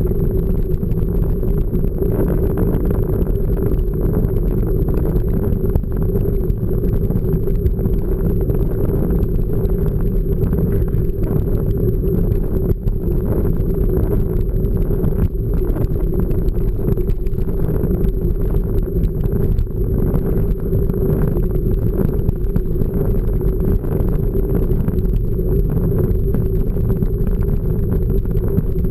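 Mountain-bike ride heard through a GoPro action camera: steady low wind rumble on the microphone with the light rattle and clicking of the bike over the trail.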